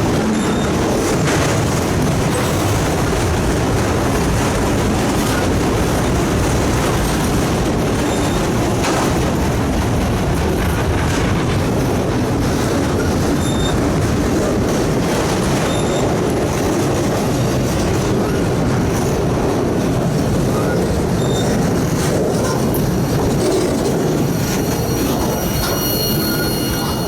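Freight train cars rolling past close by: a steady rumble with scattered wheel clicks and brief high-pitched wheel squeals, and a longer high squeal near the end.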